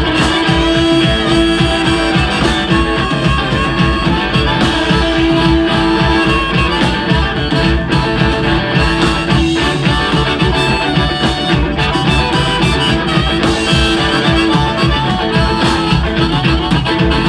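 Blues band playing an instrumental break, with a lead instrument holding long notes over a steady beat from the rhythm section.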